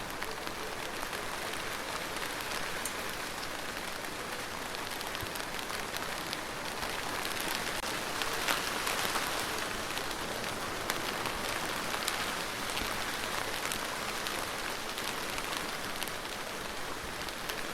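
Steady rain falling on a surface: an even hiss with many scattered drop ticks, swelling slightly a little past the middle.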